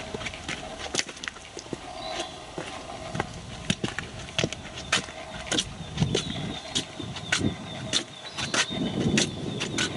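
Footsteps on a forest path, with a dense run of irregular crunches, snaps and clicks and some heavier thuds in the second half.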